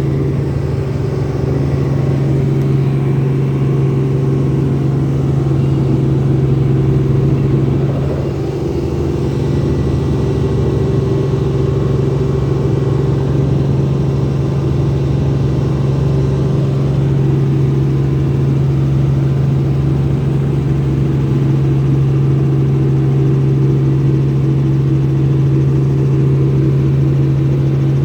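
Helicopter in flight: a loud, steady engine and rotor drone with a constant low hum, dipping briefly about eight seconds in.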